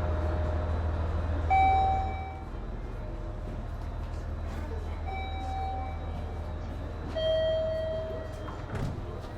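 Steady low hum of a train at rest, easing off slightly about two seconds in, with three clear chime-like tones sounding over it, the last one a little lower than the first two.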